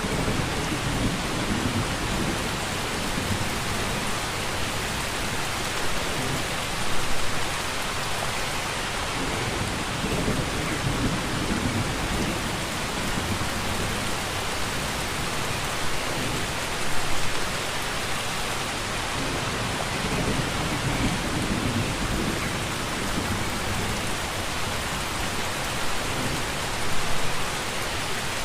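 Steady heavy rain, a dense even hiss, with a short low rumble of thunder swelling up three times, about every ten seconds.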